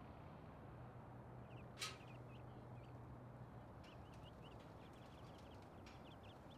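Near silence: faint outdoor quiet with small birds chirping, more often in the second half, and one short sharp click about two seconds in.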